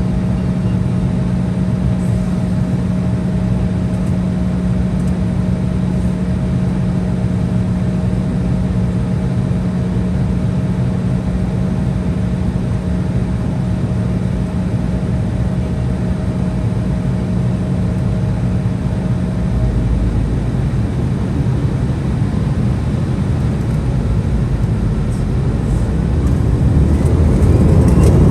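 Cabin noise inside an Embraer 175 regional jet with its General Electric CF34 turbofans at low power: a steady rumble with a held hum. In the last couple of seconds the sound grows louder and a rising whine appears as engine power comes up.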